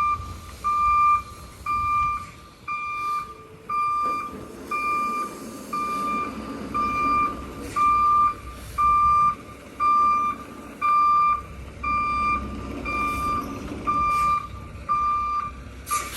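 Semi truck's reversing alarm beeping steadily about once a second as the rig backs into a loading dock, over the low rumble of the diesel engine. A sudden hiss starts right at the end.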